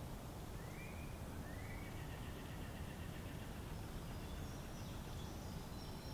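Outdoor evening ambience: a steady low background rumble with faint bird calls. There are two short rising chirps about one and two seconds in, then thin higher notes in the second half.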